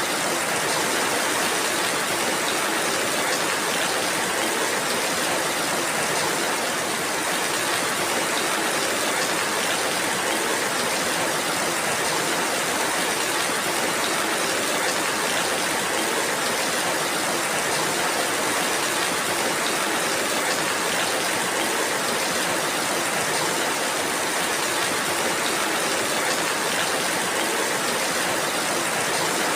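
Steady rainfall: an even hiss of many drops at a constant level, without pauses or single loud strikes.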